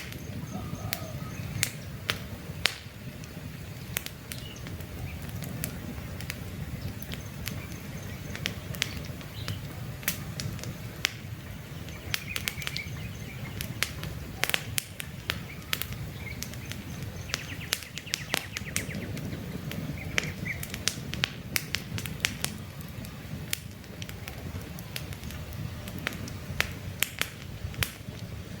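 Wood campfire crackling, with frequent sharp pops and snaps over a steady low rumble. Faint bird chirps come now and then.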